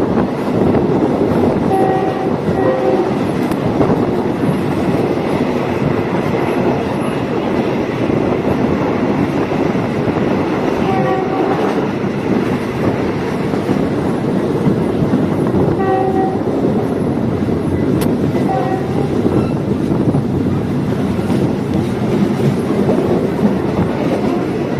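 Diesel multiple-unit train running along the track with a steady rolling rumble, sounding its horn in short blasts several times.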